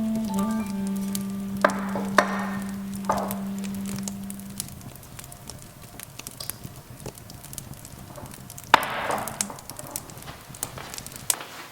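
A kitchen knife striking a cutting board in a few separate chops, the loudest near the start and one near the end, among lighter clicks of kitchen work. A held music note fades out in the first half.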